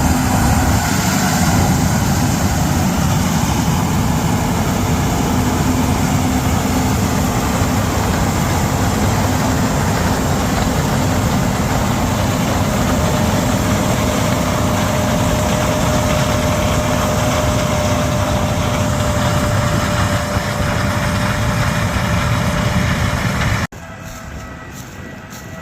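John Deere S680 combine harvesting corn, its engine and machinery running with a steady, loud drone. Near the end the sound drops suddenly to a quieter, different noise.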